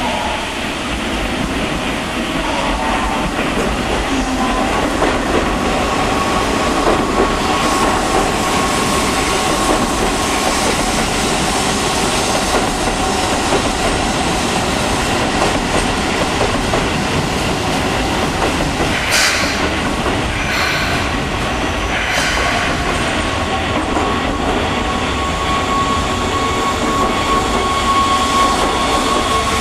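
Keihan electric train running through the station close by, wheels clacking over rail joints with a steady whine. Two brief high-pitched wheel squeals come about two-thirds of the way through.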